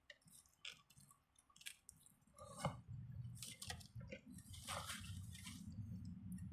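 Faint close-up chewing: soft wet clicks and squishes of a mouth working on a sandwich. About halfway in, a low rumble joins with a few louder smacks over it.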